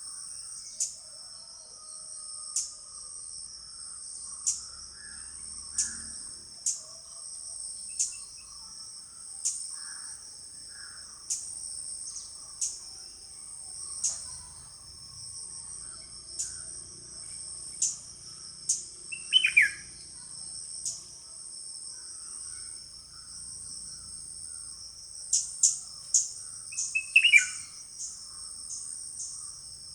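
Steady high-pitched drone of crickets or similar insects, with sharp, short, high chirps every second or two that come in a quick cluster near the end. A bird gives a short falling call twice, about two-thirds of the way in and again near the end.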